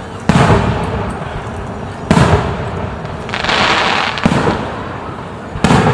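Aerial fireworks shells bursting: four sharp booms, each trailing off. Between the second and third boom there is a crackling shower lasting about a second.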